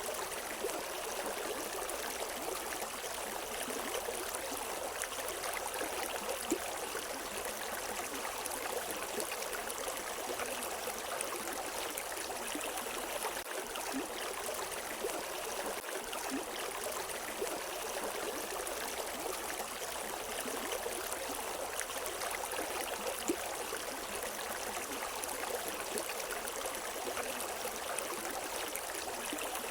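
River water running over rocks: a steady rushing and gurgling with small splashes throughout.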